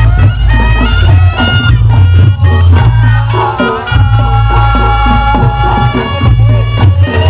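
Reog Ponorogo ensemble music: a slompret, the Javanese reed trumpet, plays a held, bending melody over steady drum beats and a deep low pulse.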